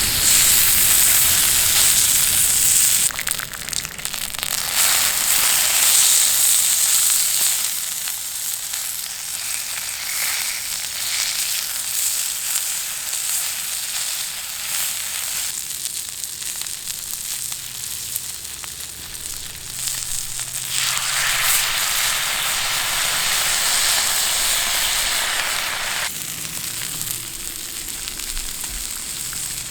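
Meat sizzling on a thick iron griddle over a wood fire, a steady frying hiss that swells louder near the start, again around five seconds in and again for a few seconds past the twenty-second mark, easing off in between.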